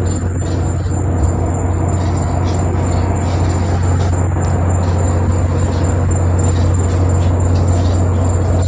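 Rocket launch heard from the beach: a loud, steady low rumble with irregular crackling on top.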